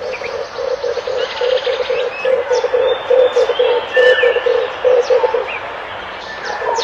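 Red collared dove cooing: a low, rolling coo repeated in short groups of pulses, pausing about a second before the end. Other small birds give thin, high chirps over it.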